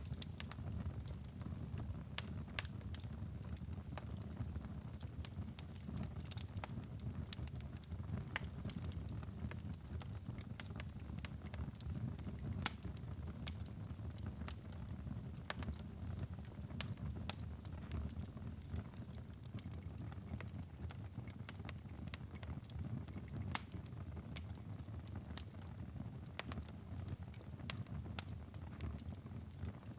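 Wood fire burning in a fireplace: a steady low rumble of the flames with scattered sharp crackles and pops, irregular, a few each second.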